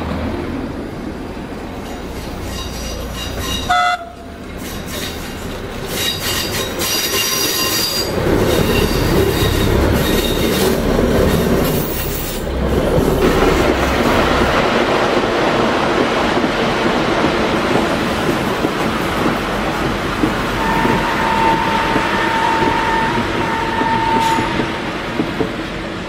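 Diesel trains running on the rails. A few seconds in, the wheels squeal with high, ringing tones for several seconds. Then a diesel locomotive hauling a rake of vintage carriages runs steadily, and its horn sounds twice near the end, a long blast and then a short one.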